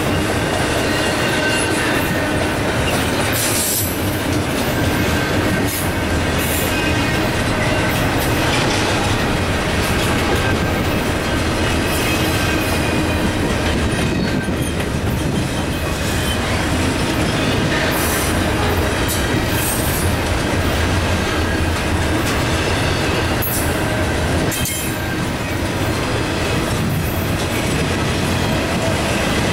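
Double-stack intermodal freight cars rolling past: a steady rumble of steel wheels on rail, with clicks as the wheels cross rail joints. Thin, high wheel squeals come and go.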